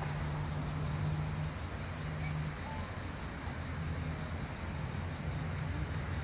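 Outdoor ambience: a steady low drone under an even wash of wind and water-like noise, with a couple of faint, brief bird chirps.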